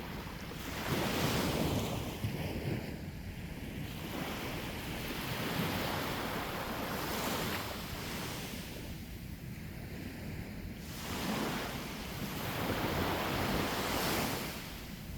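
Sea waves breaking and washing up on the shore, swelling and easing in several surges a few seconds apart, with wind rumbling on the microphone.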